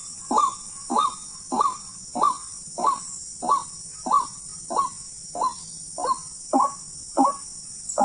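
White-breasted waterhen (ruak-ruak) calling: a monotonous series of harsh, short notes repeated about every 0.6 seconds, each one dropping sharply in pitch.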